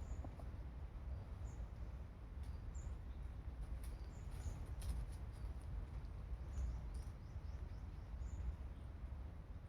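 Low wind rumble on the microphone, with scattered short, high chirps of small birds and a few faint clicks.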